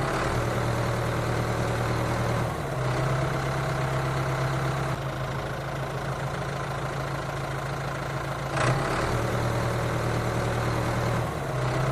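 Engine idling steadily, a low even hum with a fainter higher drone. The sound changes abruptly three times, as if separate recordings were spliced together, with a short click at one of the joins.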